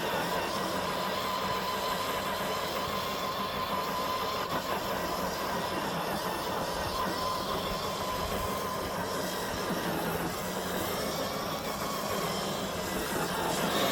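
Electric motor and gearbox of an FMS FJ40 RC crawler whining steadily as it drives.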